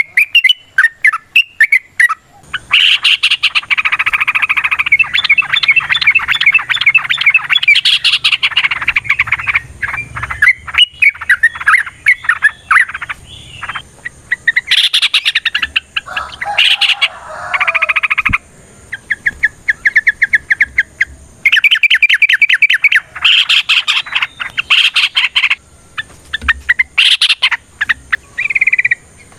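Yellow-vented bulbuls (trucukan) singing long runs of fast, chattering notes, more than one bird at a time, broken by short pauses.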